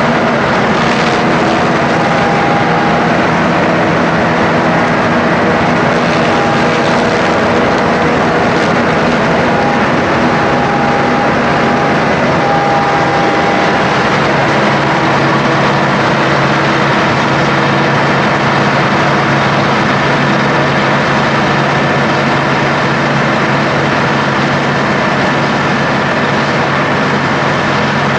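Heavy diesel farm machinery, such as a forage harvester and tractors chopping and hauling maize silage, running steadily under load. The engine note changes about halfway through.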